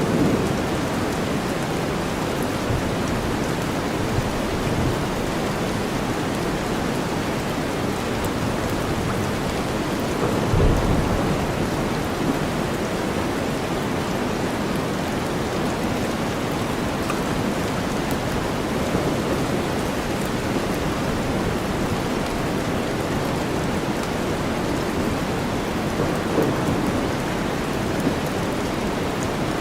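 Steady, dense rainstorm sound blended with deep white noise, even throughout. About ten seconds in there is a brief low rumble, like distant thunder.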